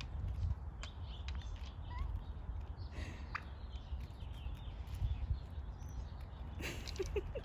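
Birds at a feeder: a few faint short chirps and scattered light clicks over a steady low rumble, with a brief louder rustle near the end.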